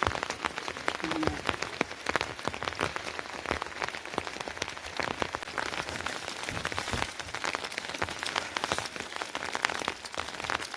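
Steady rain falling, with many separate drops hitting a surface close by.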